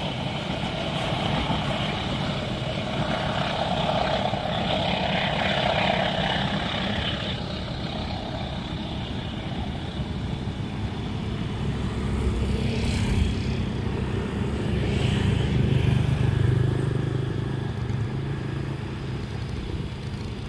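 Vehicles running past, a steady rushing noise with a low engine hum that swells about twelve seconds in and fades near the end.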